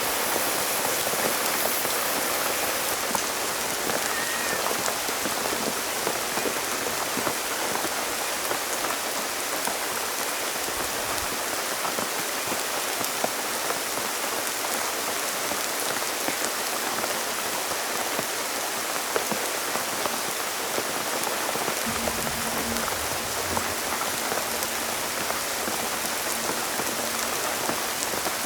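Heavy rain falling steadily, a dense hiss made of countless small drop ticks. A faint low hum comes in about three quarters of the way through.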